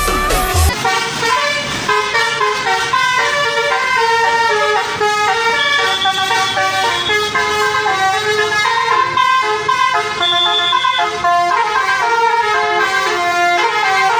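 Multi-tone musical bus horn (an Indonesian 'telolet' horn) playing a quick melody of chords, the notes changing several times a second, starting about a second in.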